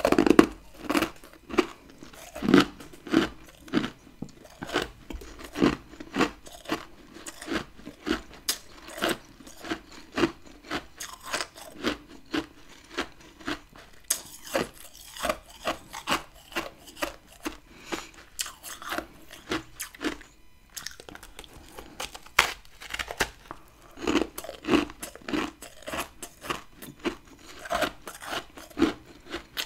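A person chewing a large chunk of humidifier-built freezer frost close to the microphone: a loud crunching bite at the start, then steady crunching chews about two a second.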